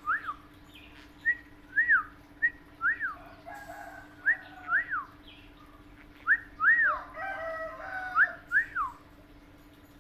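Pet parrot whistling a string of short notes, each rising and then falling in pitch, in little groups of two or three.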